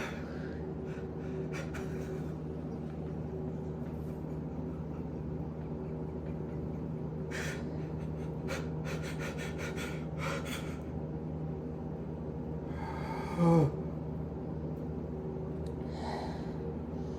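A person breathing deeply in and out, with several audible breaths and one loud voiced gasp about thirteen seconds in, its pitch falling. A steady low hum runs underneath.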